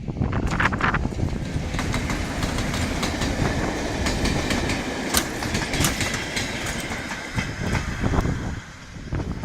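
Train running along the track, its wheels clicking over the rail joints in a steady clatter.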